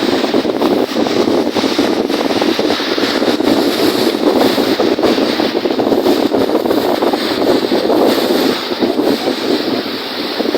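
Strong wind rushing over the microphone, mixed with wind-driven waves on a lake. It is a steady, loud rush that eases slightly near the end.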